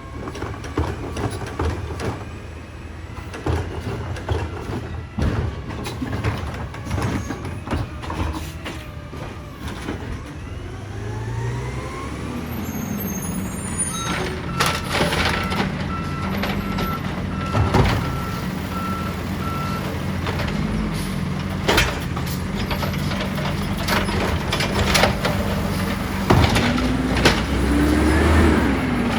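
Side-loader garbage truck at work: its engine runs under load amid repeated clanks and bangs from the automated arm and carts. A backup alarm beeps steadily for several seconds midway, and the engine note rises near the end.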